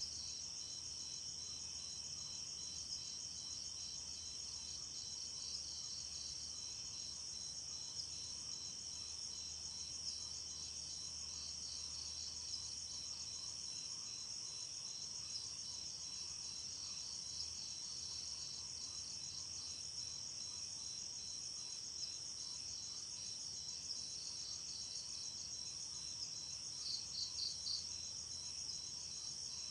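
Crickets and other night insects trilling steadily in a dense, high-pitched chorus. Near the end, a short run of four or five louder chirps stands out.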